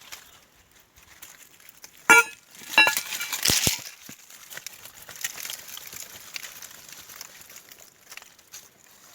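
Dry leaves and brush crackling and rustling, with a loud cluster of sharp scrapes and knocks between about two and four seconds in.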